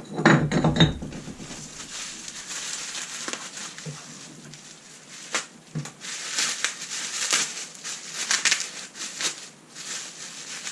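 A loud knock at the start, then packing material crinkling and rustling, with small clicks, as parts are unwrapped from a shipping box.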